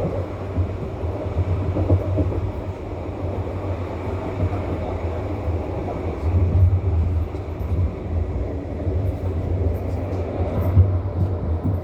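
Bombardier NGTD12DD low-floor tram running between stops, heard from inside the car: a steady low rumble from the wheels and running gear.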